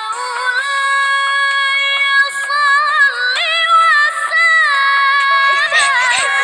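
Music with a high-pitched singing voice holding long, wavering notes.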